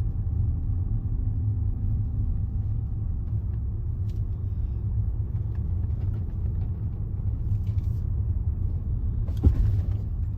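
Steady low road and engine rumble of a Range Rover driving along a narrow road, heard from inside the cabin. A single sharp knock about nine and a half seconds in.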